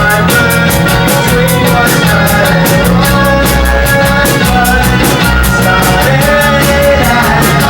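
A rock band playing a song live, with drums keeping a fast, even cymbal beat over guitar and bass.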